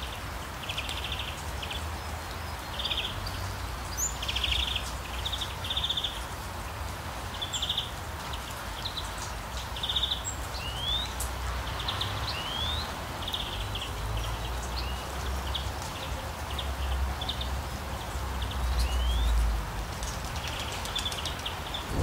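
A songbird calling over and over, with short trilled bursts and quick rising whistles, over a steady background hiss.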